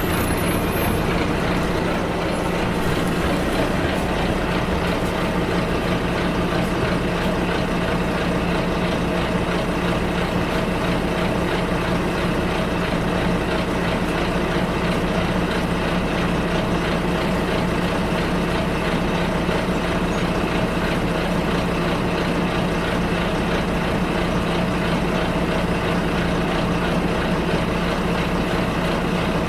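Bus engine running steadily with a constant low hum, heard from inside the bus cabin along with the general rumble of the ride.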